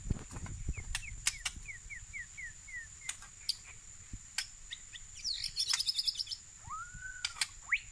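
White-rumped shamas calling at a trap. There is a run of about ten short, quick falling notes, then a fast high trill about five seconds in, and a single rising-and-falling whistle near the end. Sharp clicks are scattered through it.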